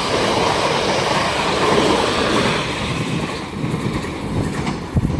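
South Western Railway Class 450 Desiro electric multiple unit passing through at speed: a steady rush of wheels on the rails that eases off after about three and a half seconds.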